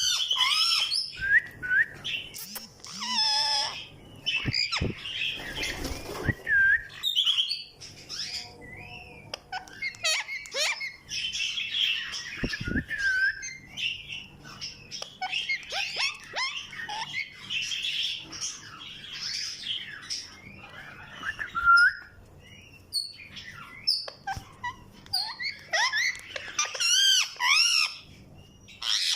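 Ringneck parrot calling in many short chirps and squawks, some of them gliding whistled notes, in bursts through the whole stretch.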